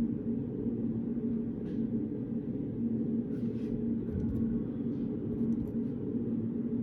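Steady low hum of a reading room's background machinery with a faint pulsing tone, and a few faint soft rustles and taps of desk work.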